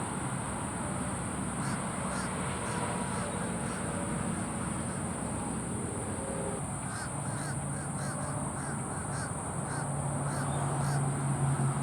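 Birds calling: a few short calls, then a rapid run of short repeated calls from about seven seconds in, over a steady high hiss. A low hum grows louder near the end.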